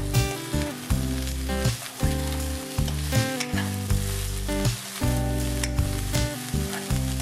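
Brinjal and green plantain chunks sizzling as they fry in oil in a non-stick pan, with a spatula stirring and scraping through them. Background music with held notes that change about once a second plays under the sizzle.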